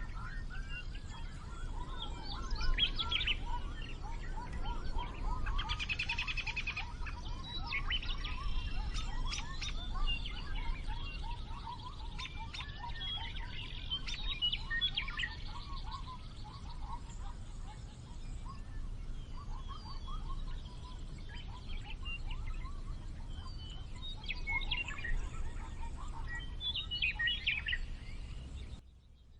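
Birds chirping and calling, many short chirps and quick little whistles overlapping, over a steady low rumble. It all cuts off suddenly near the end.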